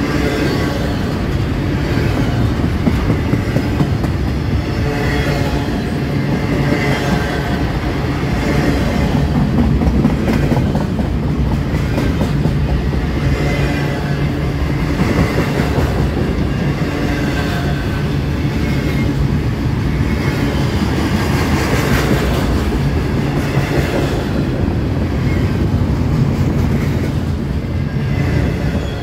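Double-stack intermodal container train passing close by: a steady loud rumble of steel wheels on the rails, with a clickety-clack of the wheels over rail joints as the well cars roll past.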